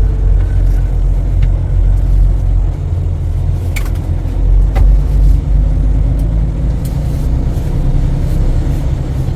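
Freightliner Cascadia semi-truck running, a steady low rumble, with two brief sharp clicks about four and five seconds in.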